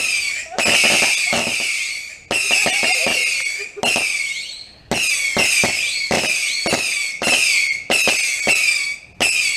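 Consumer fireworks firing a rapid run of loud bangs, roughly one every half second, each followed by a short hissing crackle.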